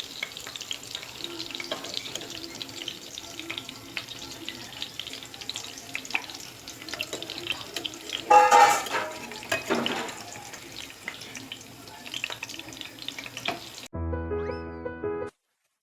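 Appalam egg fry sizzling in hot oil in a pan, with scattered crackles and one louder burst about eight seconds in. Near the end a short burst of music plays and cuts off abruptly.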